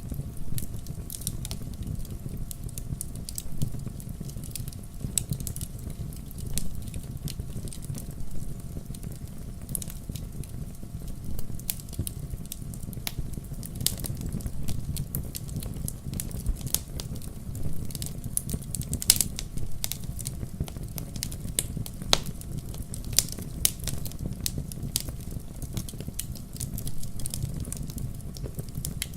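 Wood fire burning in a fireplace: a steady low rumble of flames with irregular crackles and occasional sharper pops.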